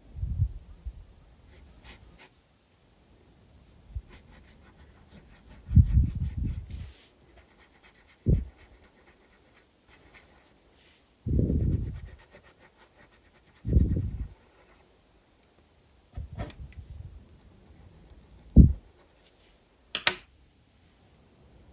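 Graphite pencil scratching and rubbing on sketchbook paper in separate strokes of shading, some short and some about a second long, with quieter scratching between them. There is a sharp click near the end.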